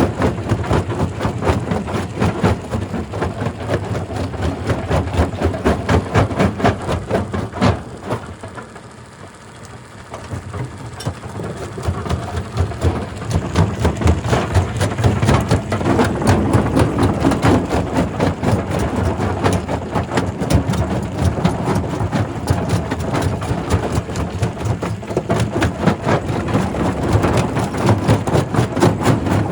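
Primary rock crusher crushing stone: dense, irregular cracking and clattering of rock over steadily running heavy machinery. The crushing falls away briefly about eight seconds in, then builds back up.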